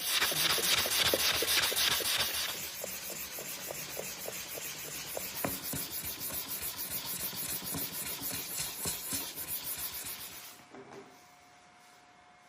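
Hand-worked abrasive scraping back and forth along a steel sword blade in quick, even strokes, as in hand sanding or sharpening during finishing. The strokes stop about ten and a half seconds in.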